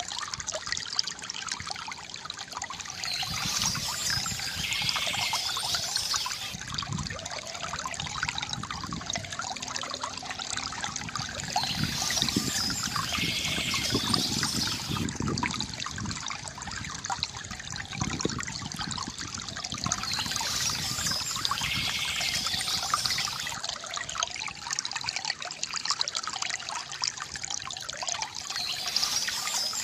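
Small stream trickling and splashing steadily over stones, with a brighter, higher-pitched spell about every eight or nine seconds, where birds sing.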